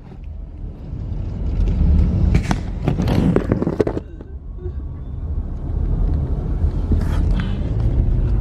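Inside a car in slow traffic: steady low engine and road rumble. It grows louder in noisy stretches about two to four seconds in and again about seven seconds in.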